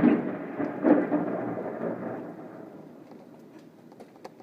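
Thunder rumbling: loudest at the start, swelling again about a second in, then dying away over the next two seconds.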